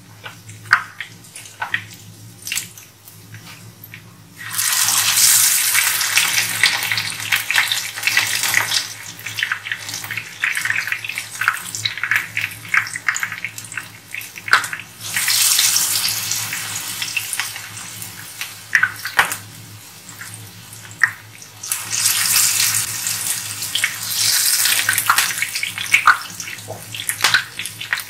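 Besan-coated mutton chops frying in hot oil in a pan: sparse crackling at first, then the sizzle surges loudly three times, about four, fifteen and twenty-two seconds in, as a new chop goes into the oil, easing off to crackling between.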